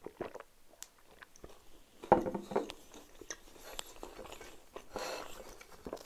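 Close-miked eating sounds: a man chewing homemade mini pizza, with small mouth clicks. About two seconds in there is a sudden louder knock as a glass jar of lemonade he has been drinking from is set down on the table.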